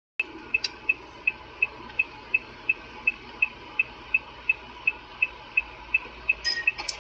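Steady, evenly spaced electronic ticking, about three ticks a second, like a car's turn-signal indicator, over a low hum.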